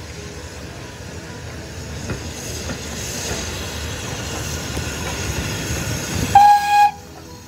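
Double-headed steam train, BR Standard Class 2MT 2-6-0 No. 78022 leading Ivatt Class 2MT 2-6-2 tank No. 41241, passing close by, its running noise building steadily. About six seconds in comes a short, loud steam-whistle blast, the loudest sound, which cuts off abruptly.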